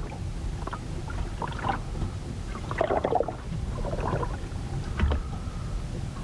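Storm water sloshing and splashing against a ship's hull in irregular surges over a steady low rumble, with a short sharp knock about five seconds in.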